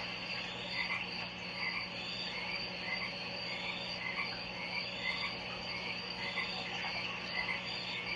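Frog calls repeating roughly once a second over a steady high-pitched drone and a low hum.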